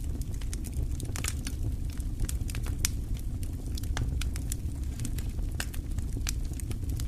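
Wood fire burning in a fireplace: a steady low rumble of the flames with frequent irregular pops and crackles of burning wood.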